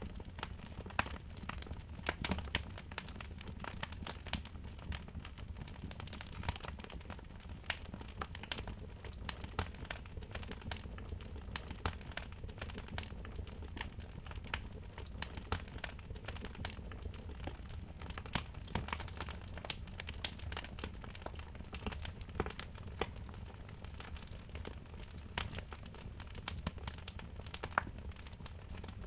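Wood fire in a fireplace crackling, with constant irregular pops and snaps over a low, steady rumble.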